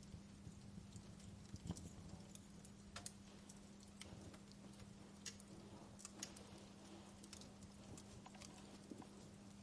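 Wood fire crackling in a fireplace: irregular small pops and snaps, a couple of louder ones about two and three seconds in, over a faint steady hum.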